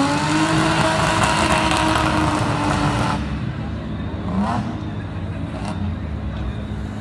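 Big-turbo Volkswagen Mk4 Golf engine pulling hard, its note climbing and then holding high under a loud rush of hiss. About three seconds in the hiss cuts off sharply as the throttle closes, followed by a short rising rev about a second later.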